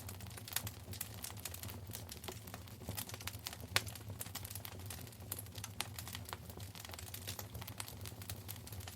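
Wood fire in a fireplace crackling: a dense, irregular run of small pops and snaps, with one sharper pop about four seconds in, over a low steady rumble.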